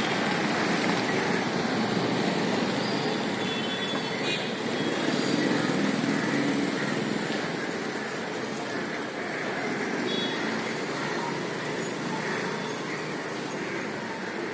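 Steady road traffic noise, with a couple of brief high-pitched tones about four and ten seconds in.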